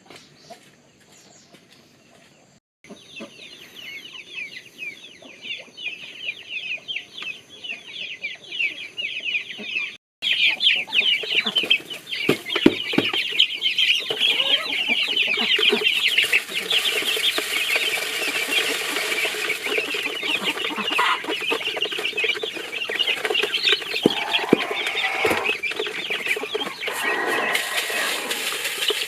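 A flock of chickens clucking and calling, many voices overlapping. The sound jumps louder after an abrupt break about ten seconds in.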